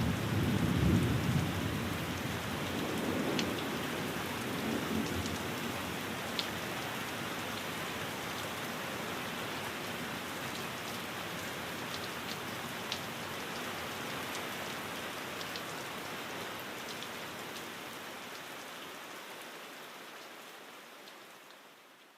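Steady rain, with the low rumble of thunder dying away over the first few seconds and a few faint ticks of drops. The rain fades out near the end.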